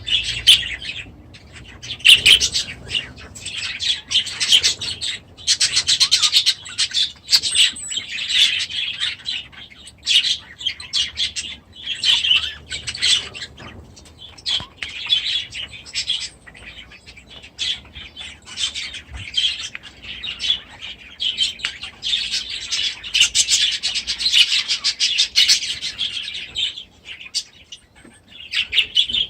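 Many small aviary birds chirping and chattering together in a dense, overlapping stream of high calls, easing briefly now and then.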